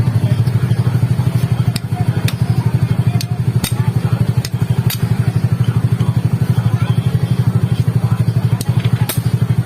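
Motorcycle engine idling steadily with an even, rapid putt of about ten beats a second, with a few sharp clicks over it.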